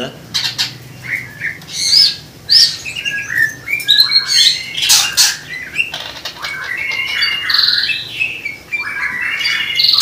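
Several caged songbirds calling at once: harsh squawks mixed with short whistled and chirping notes, one call after another with only brief gaps.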